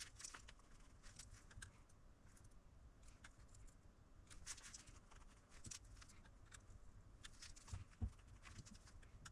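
Near silence with faint, scattered small ticks and rustles of hands handling small objects.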